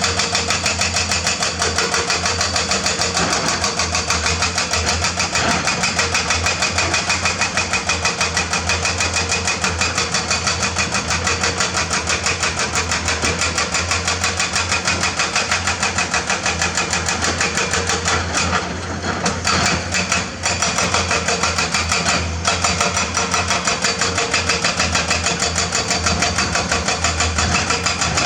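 Heavy excavator diesel engine running hard with a fast, even clatter, easing briefly about two-thirds of the way through.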